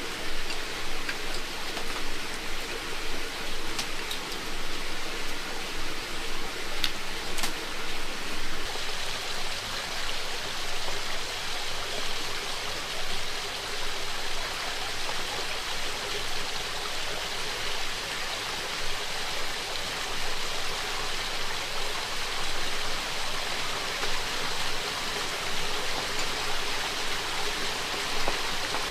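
Heavy rain falling steadily, with a few faint ticks about four and seven seconds in.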